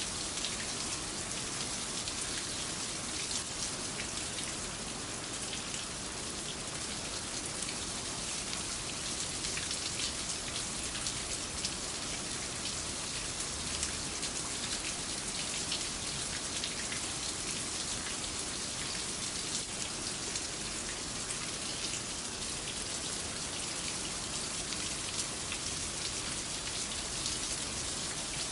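Steady rain falling, a continuous hiss dense with small drop ticks on a hard surface.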